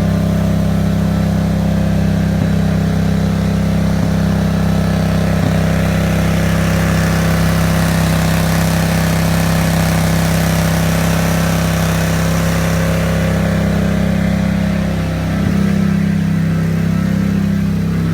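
An engine running steadily at a constant speed, with a brief dip in level about fifteen seconds in.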